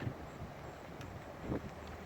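Outdoor walking ambience: wind buffeting the microphone over a low steady rumble, with one soft thump about one and a half seconds in.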